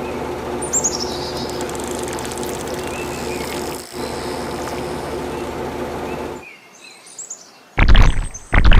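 Birds chirping over a steady mechanical hum that cuts off abruptly about six seconds in. Two loud thumps follow near the end.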